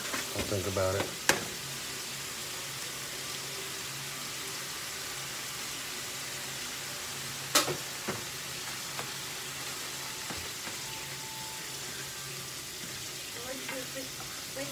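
Eggs and rice frying in a skillet, a steady sizzle, with two sharp knocks, one about a second in and one about halfway; a spatula stirs the pan near the end.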